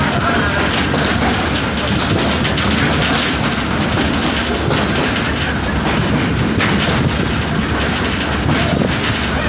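Tourist train rolling along the track, a steady rumble of wheels on rails heard from aboard an open-sided passenger car.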